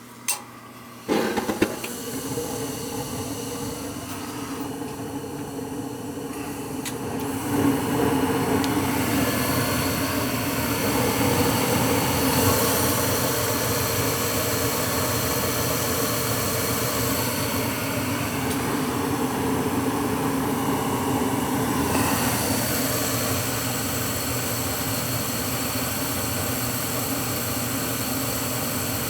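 Gas furnace starting up after power is restored to its new main control board: a click, then a motor hum that starts suddenly about a second in and runs steadily, growing louder around seven seconds in. The blower fan has not yet come on.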